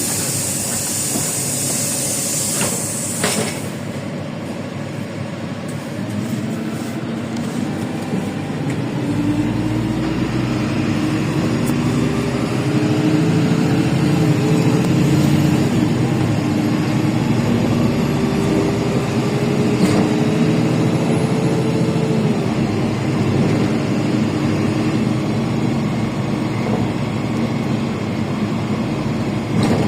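Inside a LiAZ 5292.65 city bus with a Yuchai engine: a hiss of compressed air in the first three seconds. Then the bus pulls away and accelerates, the engine and drivetrain whine rising in pitch, with shifts near the middle and about two-thirds of the way in.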